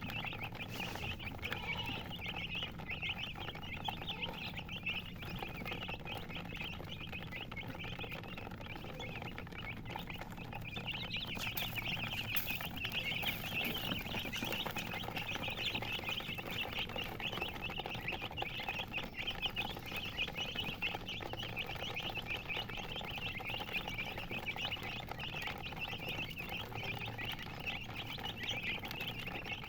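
A brood of chicks peeping continuously, many high chirps overlapping into a dense chatter that thins a little about ten seconds in and then fills back up.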